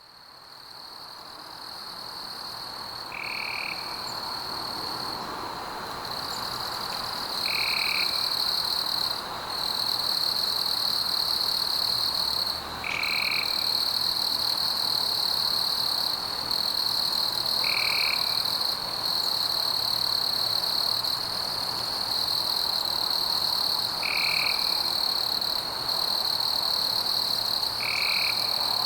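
Rainforest ambience fading in: a steady, high-pitched trilling chorus of frogs with a soft hiss beneath it, and a short call repeated about every five seconds, six times in all.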